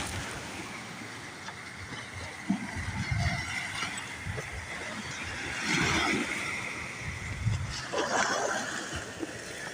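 Waves washing onto a beach, swelling about six seconds in and again near eight, with irregular low thuds throughout.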